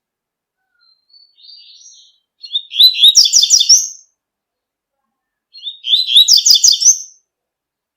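Double-collared seedeater (coleiro) singing its tui-tui song: a soft short phrase about a second in, then two loud phrases of rapid repeated high notes, one at about two and a half seconds and another at about five and a half seconds.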